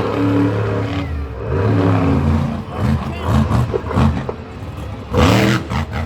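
Monster truck engine revving up and down again and again, with a loud burst of throttle about five seconds in.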